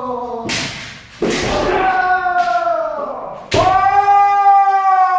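Kendo kiai: loud, drawn-out shouts held for a second or two, each opening with a sharp smack of a strike. The longest shout starts about three and a half seconds in.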